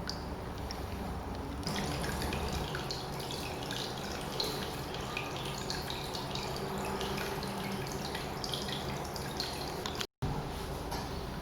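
Water trickling and dripping over the rocks of a small tabletop water fountain, a steady splashing that gets busier about two seconds in, over a low steady hum. It breaks off briefly near the end.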